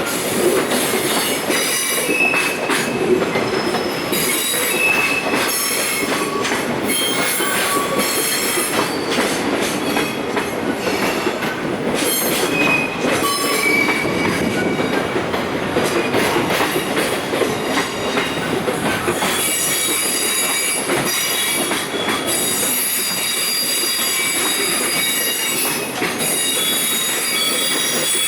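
A container freight train rolling slowly into a station. Its steel wheels squeal in many short high notes, more densely in the second half, over a steady rumble and the clatter of wheels crossing rail joints.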